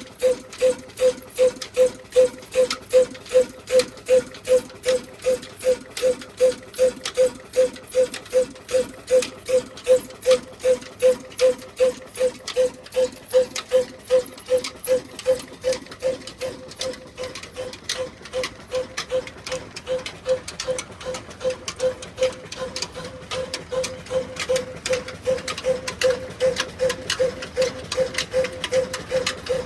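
Slow single-cylinder diesel engine running a chakki flour mill, beating evenly about two to three times a second with a ringing squeak on each beat. The beats grow weaker and less even about halfway through.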